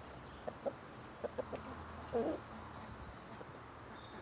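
Hens clucking quietly: a few short clucks in the first second and a half, then a longer drawn-out cluck a little past two seconds in.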